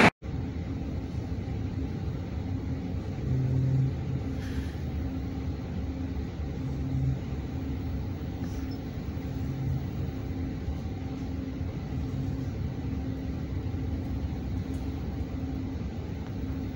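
Steady rumble of an electric commuter train heard from inside the carriage as it runs along the track, with a faint constant hum. The rumble swells briefly a few times, loudest about three seconds in.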